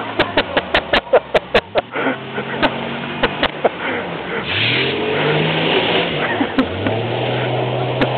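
Jeep engine revving as it accelerates: its pitch climbs about four seconds in, drops, then climbs again and holds. A quick run of sharp knocks comes before it, in the first few seconds.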